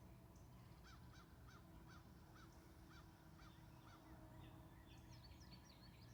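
Faint birdsong: one bird gives a run of about eight short, evenly spaced call notes, roughly two a second, while other birds chirp higher up, more busily near the end. A low steady hum lies underneath.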